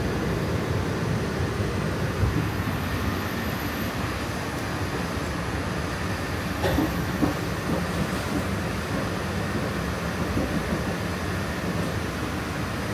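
A train running: the steady rumble of a rail vehicle in motion, with a couple of sharp clicks about seven seconds in.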